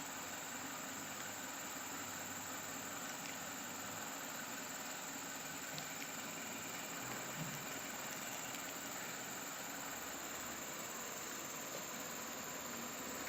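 Faint, steady outdoor background: an even hiss with a constant high-pitched whine and a low hum underneath, and no distinct events.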